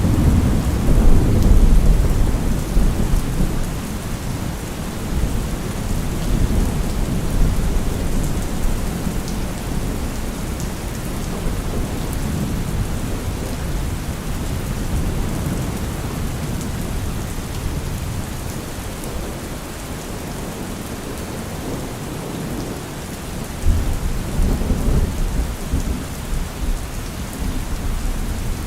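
Steady rain with rolling thunder: a long low rumble of thunder in the first few seconds and another near the end, over the constant hiss of rainfall.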